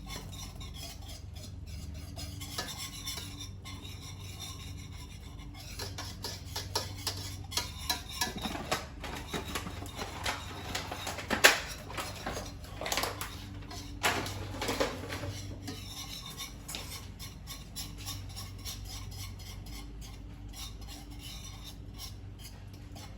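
A utensil clinking and scraping against a pan as a cream cheese sauce is stirred. The knocks come thickest through the middle, with one sharp clack about halfway through.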